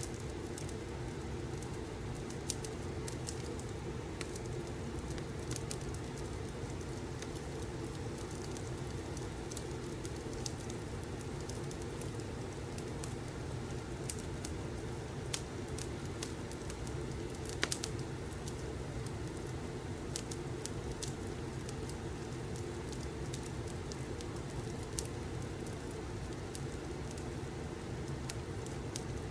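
Fireplace ambience: a steady low rumble of burning logs with scattered, irregular crackles and pops, one sharper pop a little past halfway.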